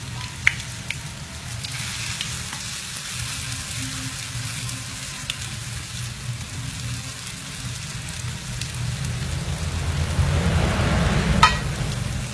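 Shredded sweet potato fritters sizzling steadily in hot oil in a nonstick frying pan, over a steady low hum. A few light clicks of wooden chopsticks against the pan, the sharpest and loudest a little before the end.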